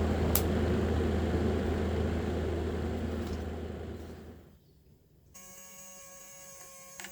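A small electric fan motor running with a steady low hum, then slowing and stopping about four seconds in as it is switched off. Faint steady tones start shortly after.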